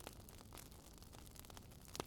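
Wood fire crackling faintly in a fireplace: a few sharp pops and snaps, one near the start, one about half a second in and one near the end, over a low steady hiss.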